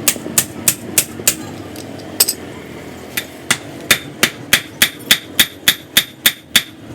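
Hammer striking metal in steady, evenly spaced blows, about three a second, with a pause of about a second near the start; the later blows ring with a high metallic note.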